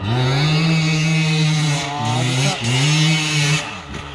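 Enduro motorcycle engine revving hard under throttle. Its pitch climbs and holds for a couple of seconds, dips briefly twice as the throttle is rolled off and back on, then falls away near the end.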